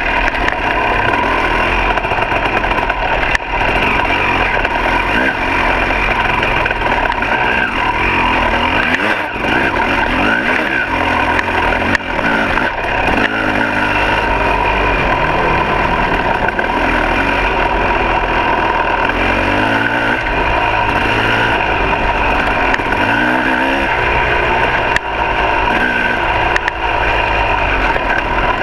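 Two-stroke dirt bike engine running on a trail ride, its revs rising and falling repeatedly as the rider works the throttle.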